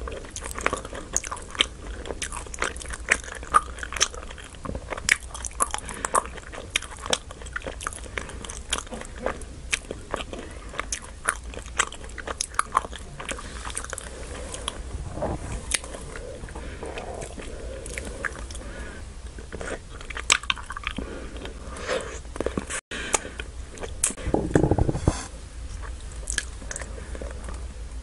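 Close-miked chewing of chewy Nik-L-Nip wax-bottle candy, a steady run of wet mouth clicks and smacks. A louder, lower burst of chewing comes near the end.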